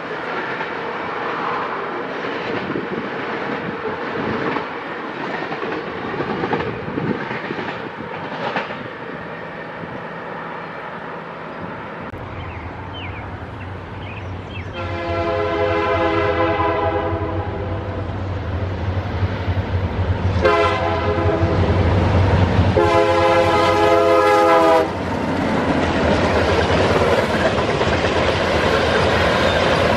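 Train rolling along with wheels clacking on the rails. About twelve seconds in, a diesel locomotive's engine rumble comes in, and it sounds its chime air horn three times: a long blast, a short one, then another long one.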